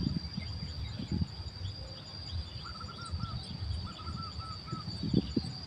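A bird calling in two quick runs of four or five short, evenly repeated notes, over a steady high insect drone, with low rumbling and thumps underneath.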